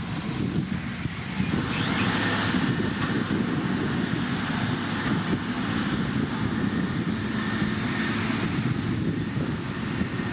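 Diesel engine of heavy road-building machinery, a motor grader or road roller, running steadily; it gets louder about a second and a half in.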